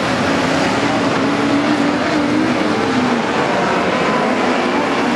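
Midget race car engines running hard, their pitch wavering up and down as the cars lap the track.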